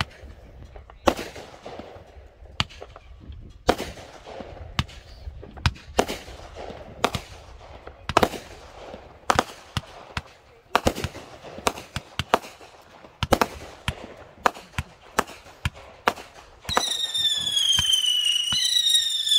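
Consumer fireworks going off: a string of sharp bangs, one every half second to a second, many trailing off briefly. About seventeen seconds in, a loud high whistle from a whistling firework starts and sags slightly in pitch, then jumps back up and sags again about a second and a half later.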